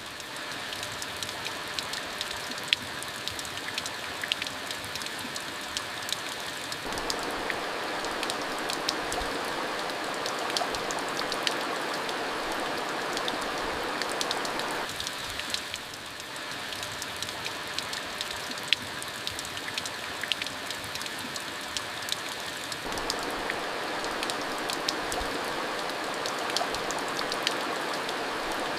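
Steady rain falling, with many sharp ticks of single drops striking close by. The rain grows a little fuller about a quarter of the way in, eases slightly midway, then fills out again.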